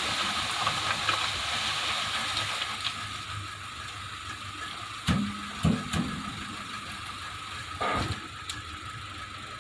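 Steady mechanical running noise that eases off about three seconds in, with four sharp knocks in the second half.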